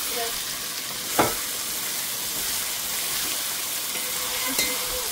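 Food frying in hot oil in a karahi, a steady sizzle, with a single knock of the spoon against the pot about a second in as the food is turned.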